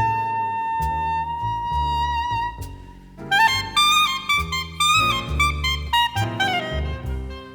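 Jazz quintet recording: a saxophone holds one long high note for about three seconds, then breaks into a fast run of notes over a bass line.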